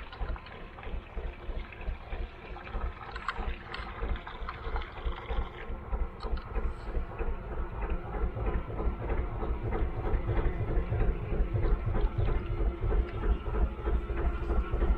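Gardner 2LW two-cylinder diesel engine of a narrowboat running at a steady cruising pace, with a low, regular beat that grows gradually louder.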